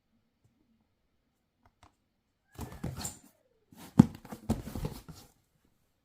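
Packaging being handled in a small room: two short spells of rustling and crackling with knocks, the sharpest knock about four seconds in.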